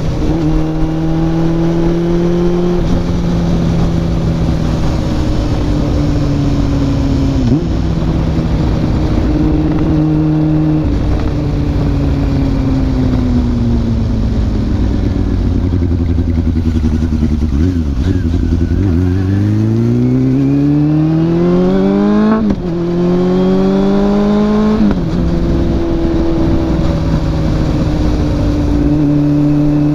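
Honda CB400SF's inline-four engine through a WR'S slip-on muffler, heard from on the moving motorcycle. It holds a steady pitch at cruise, sags, then revs up hard about two-thirds of the way through, with two quick upshifts a few seconds apart, and settles back to a steady cruise.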